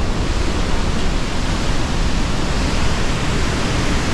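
Pailón del Diablo waterfall on the Río Verde: the loud, steady rush of a large volume of falling water, an even noise with no breaks.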